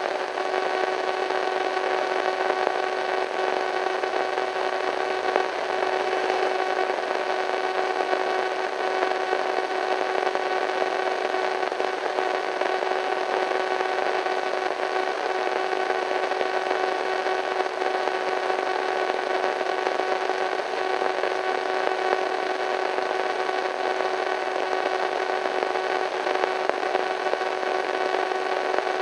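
Radio static: a steady hiss with an eerie hum of several evenly spaced tones running underneath, unchanging throughout.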